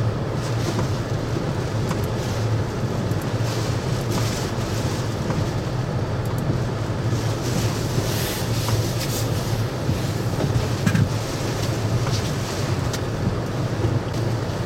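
Hurricane-force wind buffeting the microphone with a steady low rumble, over waves surging and splashing through a harbor, with brief bursts of spray and gust hiss throughout.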